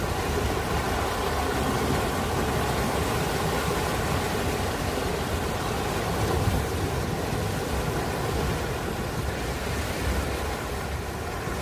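Ocean surf washing steadily: a continuous rumbling hiss with no single wave standing out.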